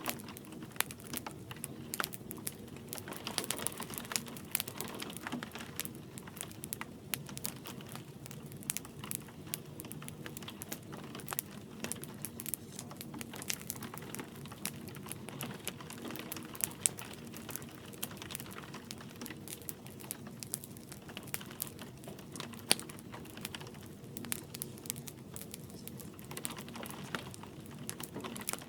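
Wood fire crackling in a fireplace: irregular sharp pops and snaps over a soft, steady hiss, blended with light rain.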